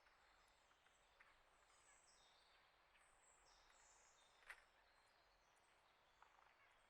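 Faint wild birds calling: thin, high chirps and a few downward-gliding notes over a soft outdoor hush. A single sharp tap comes a little past halfway.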